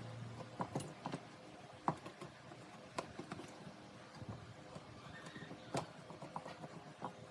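Irregular light clicks and knocks, about a dozen, as small hard parts and tools are handled on a workbench, over faint hiss and a faint steady hum.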